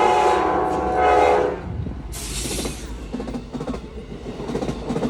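Amtrak passenger train's horn blowing a chord of several tones, cutting off about a second and a half in, then the train rolling past with its wheels clacking over the rail joints and a brief hiss about two seconds in.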